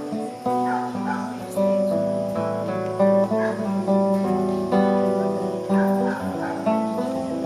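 Music with a plucked, strummed string instrument such as acoustic guitar, over long held notes that change pitch every second or so.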